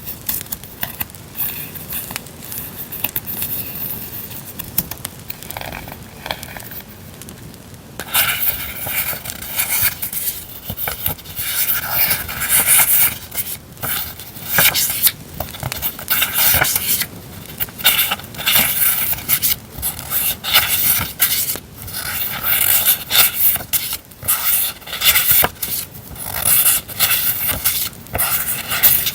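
Paper and plastic packaging of journaling stationery being handled: irregular rustling and scraping, getting louder and busier about a third of the way in. An added campfire crackle runs underneath.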